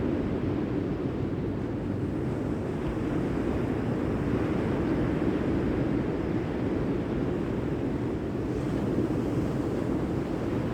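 Steady low rumble of sea surf mixed with wind buffeting the microphone.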